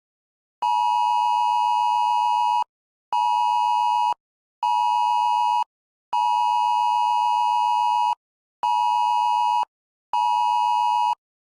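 Wireless Emergency Alert attention signal: a loud, harsh two-note tone in a long-short-short cadence (one tone of about two seconds, then two of about one second), played twice, announcing a National Weather Service dust storm warning.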